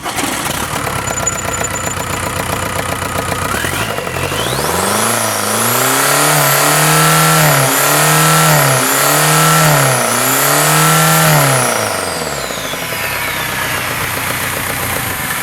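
VW ALH 1.9-litre four-cylinder TDI turbodiesel engine running on a test stand: it idles, is revved up about four seconds in and held high with four brief dips, then drops back to idle. A high whine rises and falls with the revs.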